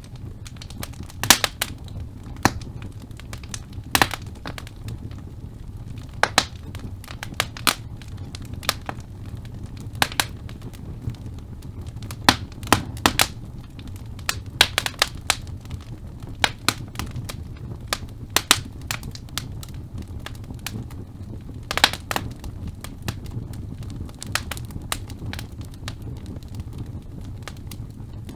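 Wood logs burning in a fireplace: irregular sharp crackles and pops, sometimes several close together, over a steady low rumble of the flames.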